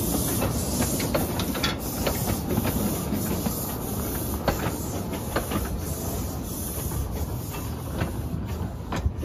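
Tourist train running, a steady rumble with frequent short rattles and clicks.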